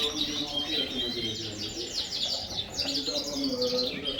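A room full of Yorkshire canaries chirping and singing together, with many overlapping calls and fast trills.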